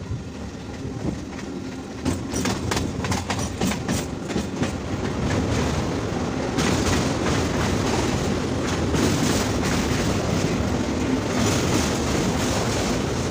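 Train wheels clattering over the rails as the coach runs at speed. About six and a half seconds in, the running noise turns louder and denser as the train rolls onto a steel truss bridge.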